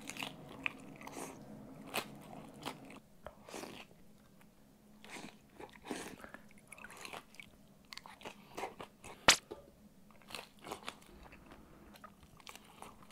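Close-up crunching and chewing of crispy-skinned pan-fried gyoza dumplings: a series of short, scattered crunches and mouth sounds. One sharp click about nine seconds in stands out above the rest.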